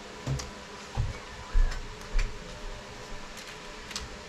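Close-miked chewing of steamed oysters and rice: wet mouth sounds with about four soft low thumps in the first two and a half seconds and a few light clicks.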